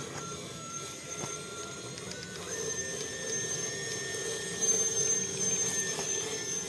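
Electric drive motor and metal gearbox of an RC model tractor whining as it drives, the whine stepping up in pitch about two and a half seconds in as it speeds up, with a short louder burst a couple of seconds later.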